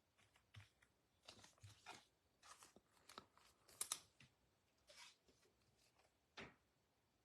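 Faint, scattered swishes and clicks of trading cards being handled and slid against one another, loudest a little before the middle, with a sharper click near the end.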